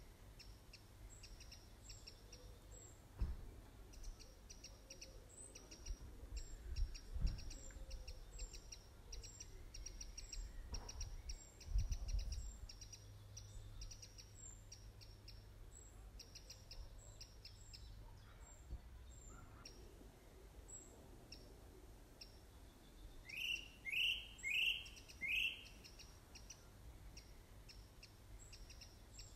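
Birds chirping: a steady run of short, high chirps repeating a few times a second, then four louder calls in quick succession near the end. A few low thumps come through, the strongest a little before the middle.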